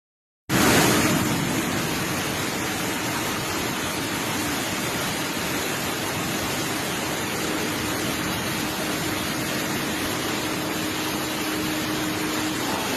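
Steady roar of large volumes of water rushing through Tarbela Dam's outlets, starting suddenly about half a second in, with a faint steady hum under it in the second half.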